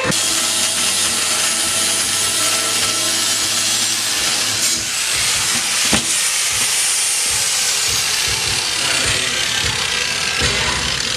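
Power grinder cutting a slit through the sheet-metal box of an old parts washer: a continuous harsh grinding noise.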